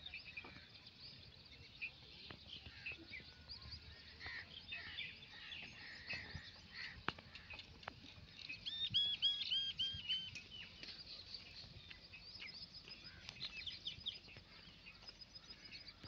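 Several birds chirping and calling over faint rural ambience. A little past the middle, one bird gives a quick run of about six repeated arched notes.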